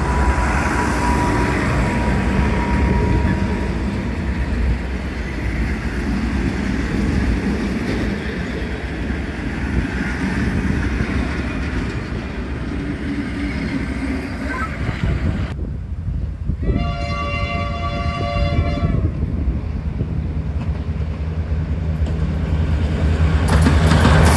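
Heritage passenger carriages roll past on the rails with a steady rumble. After an abrupt change about two-thirds through, a Victorian Railways T-class diesel locomotive's horn sounds one chord lasting about two seconds, a warning for a level crossing. Near the end the T-class locomotives' diesel engines grow loud as the train draws up.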